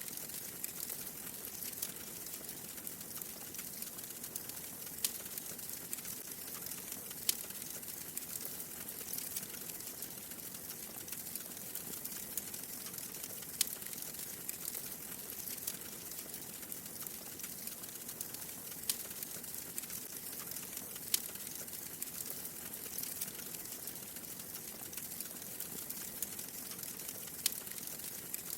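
Wood fire crackling in a fireplace: a steady hiss with frequent small crackles and an occasional sharper pop every few seconds.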